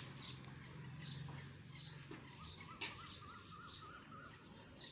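Small birds chirping, short high calls repeating every half second or so, with a wavering warbled call in the middle. A low steady hum sits underneath and fades out about halfway through.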